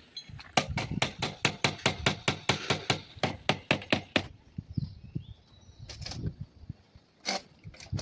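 A fast, even run of sharp knocks, about seven a second, lasting some three and a half seconds, then a few scattered knocks.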